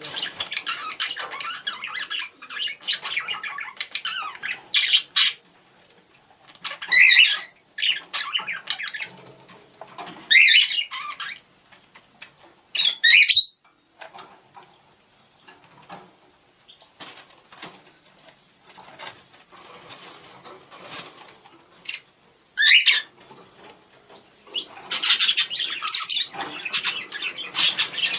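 Budgerigars chattering and warbling to each other in contact calls, with a few loud, sharp squawks about 7, 10, 13 and 23 seconds in. The chatter is densest at the start and again near the end.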